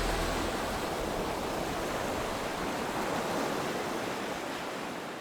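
Sea waves washing, an even rushing hiss that fades away toward the end.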